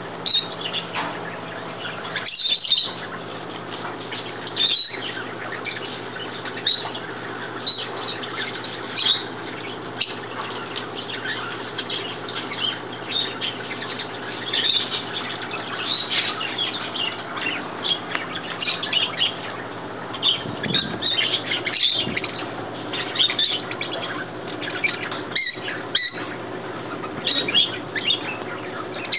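Many birds chirping and calling at once in a dense, continuous chorus of short high calls, over a steady low hum.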